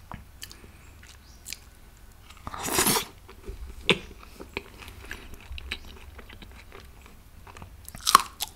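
Close-miked eating sounds of a person chewing and biting rogan josh chaap, with wet mouth clicks throughout. A loud rush of noise comes about two and a half seconds in, and another sharp burst near the end.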